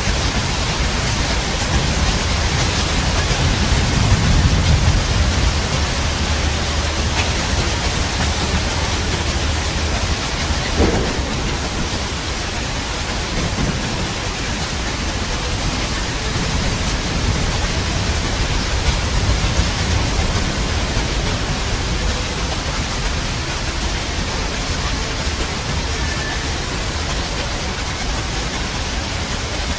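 Steady heavy rain with thunder: a low rolling rumble a few seconds in and a sharp crack a little before the middle.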